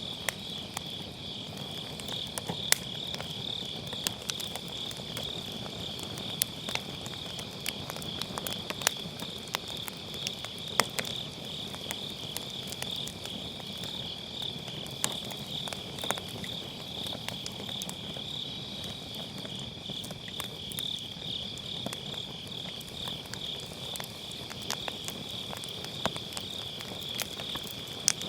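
Crickets trilling steadily in a fast pulsing chorus, while firewood burning in a fire pit crackles with scattered sharp pops.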